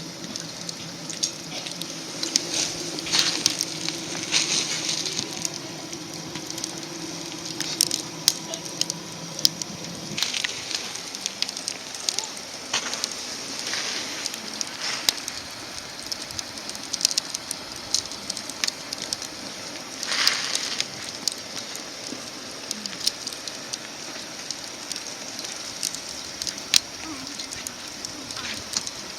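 Wood fire burning in a small camp fire stove: irregular crackles and pops with a few swelling hisses.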